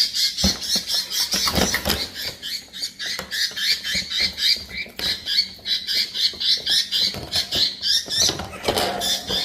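A pet bird chirping in a fast, even run of short high-pitched calls, about five a second, with a stronger call near the end.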